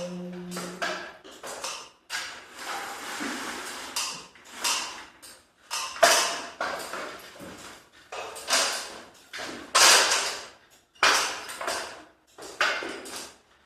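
A series of irregular knocks, scrapes and rattles from hands-on work with parts and tools, about a dozen short noisy bursts with gaps between them.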